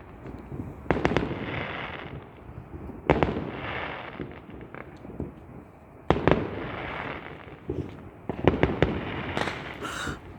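Fireworks going off: a sharp bang every two or three seconds, each followed by a fading crackle, with a quick run of several bangs near the end.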